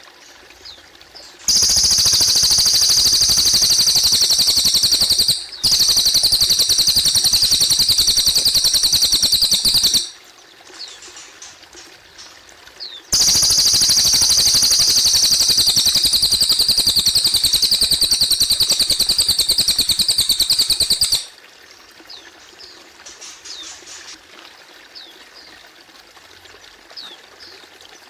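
A cililin songbird singing two long, loud, very rapid high trills of about eight seconds each, with a short break in the first. Between the trills come faint short chirps over a steady trickle of water.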